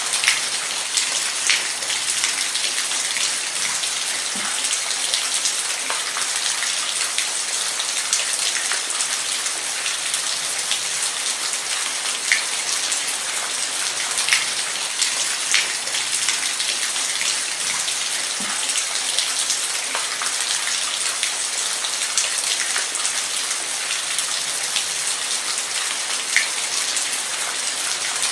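Steady rain, a constant hiss with scattered louder individual drops ticking onto a surface.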